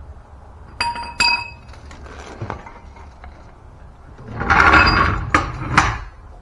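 Metal parts clinking: two sharp ringing clinks about a second in, then a louder rattling clatter with two knocks near the end.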